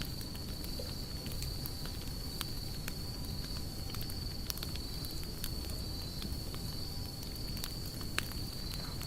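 Wood fire burning, with irregular sharp crackles and pops over a low steady rumble. A steady high-pitched trill runs behind it.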